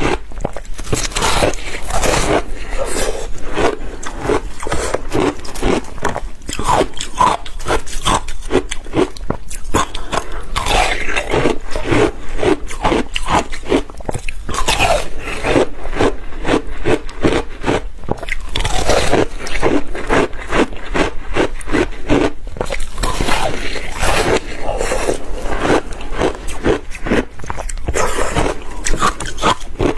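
Ice with passion fruit being bitten and chewed: a continuous run of loud, rapid crunches and cracks.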